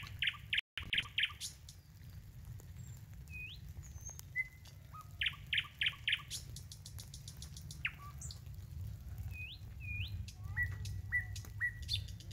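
Several small birds calling in the trees: short upward-sweeping whistles, quick groups of three or four sharp notes, and a fast rattling trill, over a low steady rumble.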